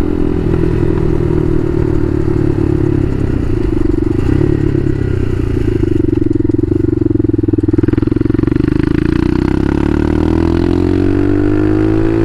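Bashan Motomax 250 supermoto's engine running under way. It holds steady for most of the time, then rises in pitch from about nine seconds in as the bike accelerates.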